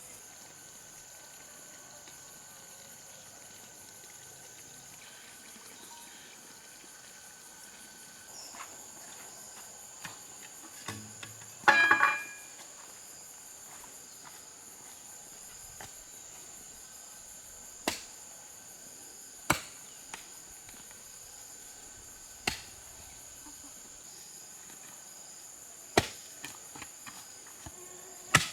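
Insects keep up a steady high-pitched buzzing chorus. A loud cluster of knocks comes about twelve seconds in, then single sharp knocks every few seconds.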